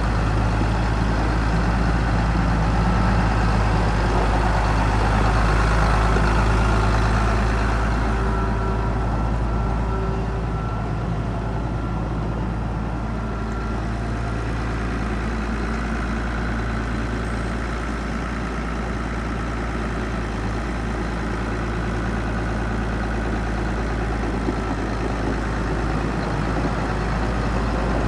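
Case IH 7210 tractor's six-cylinder diesel engine idling steadily, a deep even hum that gets a little softer and duller about eight seconds in.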